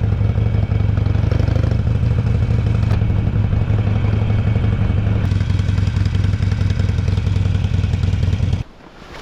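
Harley-Davidson Sportster XL883L's air-cooled 883 cc V-twin running steadily and loud close up, with a rapid firing pulse. It cuts off suddenly near the end.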